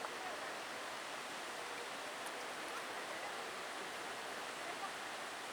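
Bâlea waterfall's falling water making a steady, even rushing hiss.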